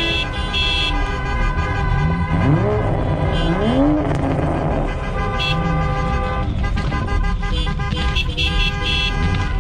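Several car horns honking in long held blasts, with car engines revving in a few quick rising blips underneath.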